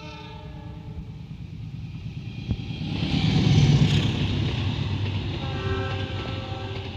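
KAI CC206 diesel-electric locomotive and its train passing at speed. A horn blast ends in the first second, the rumble of the locomotive and wheels swells to its loudest about three to four seconds in, and the horn sounds again near the end.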